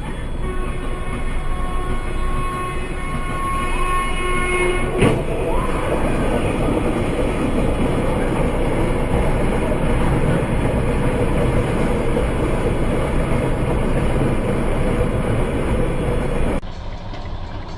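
Train horn blowing a steady chord for about five seconds, cut off by a single sharp bang, followed by the loud rumble of the train running on.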